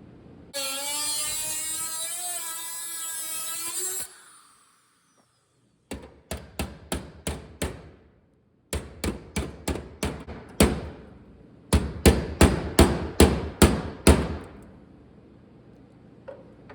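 A power tool whines for about three and a half seconds with a slightly wavering pitch and stops abruptly. After a short pause comes a hammer beating on sheet steel: about twenty sharp blows in three quick runs, the last run the loudest.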